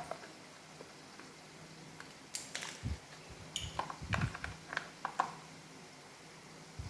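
A run of small clicks and taps from the plastic parts of an iRobot Roomba robot vacuum being handled, clustered in the middle, with a soft knock near the end.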